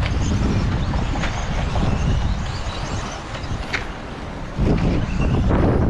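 Low, noisy rumble of outdoor race-track ambience, heavy with wind on the microphone, over radio-controlled race trucks running. It eases for about a second and a half, then surges back abruptly near the end.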